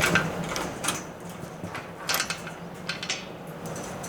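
Irregular clicks and rustles of handling noise on a very sensitive microphone, over a faint steady low hum.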